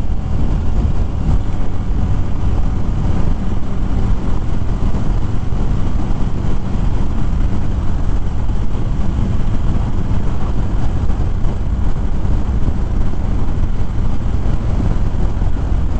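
Harley-Davidson Fat Bob V-twin running steadily while riding, under a heavy rush of wind across the helmet microphone.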